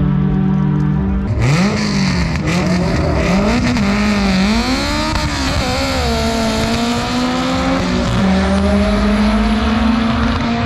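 Drag car's engine idling, then from about a second and a half in revving up and down several times over a loud hiss of tire noise, as in a burnout, before holding a steady high rev.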